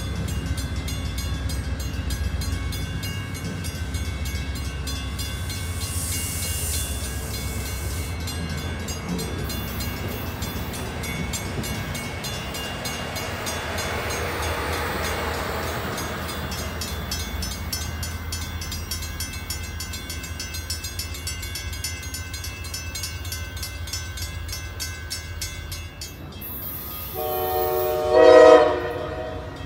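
Shore Line East passenger train rolling slowly past: a steady low rumble with faint regular clicks from the wheels on the rail joints. Near the end a locomotive air horn sounds one short blast.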